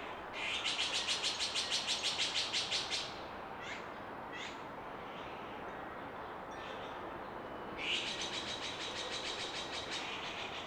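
A garden songbird giving two long, rapid, high-pitched trills, each of about a dozen quick pulses lasting two to three seconds, with a few short chirps between them, over steady background noise.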